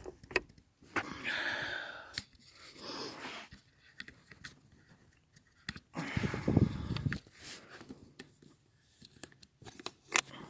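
Handling noises in a small enclosed space: scattered clicks and rustling, with a louder, muffled low sound lasting about a second roughly six seconds in.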